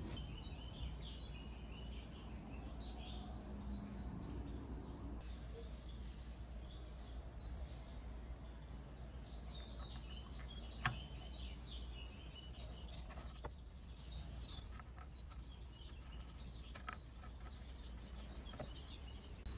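Small birds chirping over and over in the background, with one sharp click about halfway through and a few fainter taps later.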